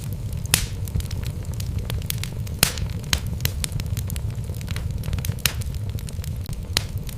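Wood fire burning in a fireplace: a steady low rumble of the flames with irregular crackles and sharp pops from the logs, a few louder snaps standing out.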